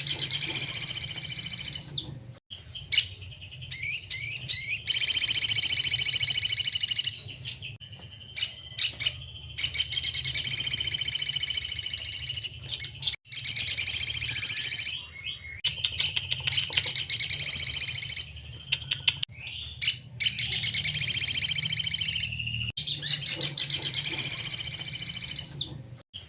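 Sogon bird singing: repeated bursts of dense, high, rapid song, each about two to three seconds long, broken by short pauses with a few single notes. A steady low hum runs underneath.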